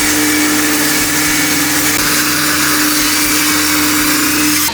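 An electric power tool running steadily at constant speed, a motor whine holding one pitch over a hiss of cutting noise.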